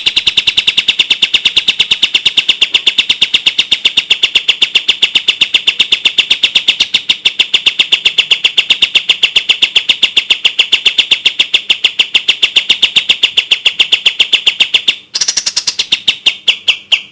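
Kapas tembak bird singing its rapid-fire song: a long run of fast, evenly spaced, sharp high notes. The run breaks off about fifteen seconds in, then resumes briefly.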